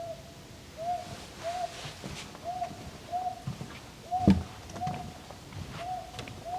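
A small owl hooting: a run of short, single-pitched hoots, most of them in pairs less than a second apart. A single knock about four seconds in.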